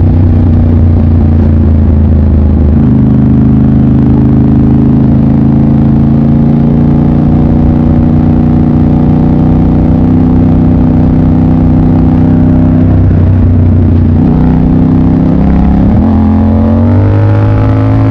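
Motorcycle engine running under way at a fairly steady speed, its pitch shifting a few times and rising near the end as the revs climb.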